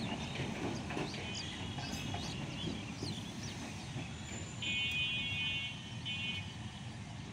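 Low rumble of a passenger train running away down the line, with scattered bird chirps. A bicycle bell rings for about two seconds past the middle.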